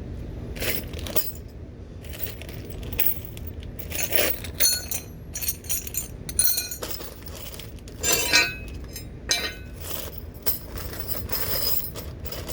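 Loose metal mounting hardware (bolts, nuts, washers and brackets for the running boards) clinking and rattling as it is handled and set down, in many irregular sharp clicks over a steady low rumble.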